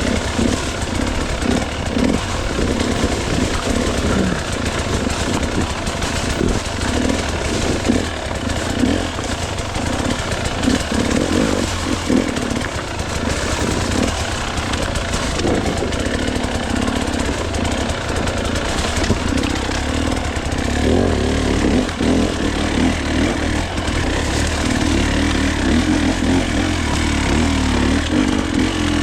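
Gas Gas hard enduro dirt bike engine, blipping and revving up and down unevenly while picking through rough, rocky terrain. It settles into a steadier run for the last several seconds.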